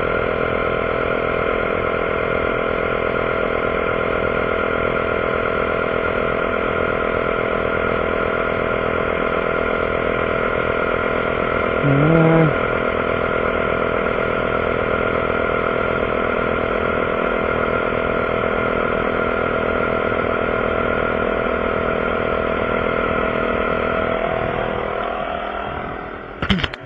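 Air compressor running steadily as it inflates a spare tire, with a brief louder sound about halfway through; it winds down and stops near the end, followed by a short sharp sound.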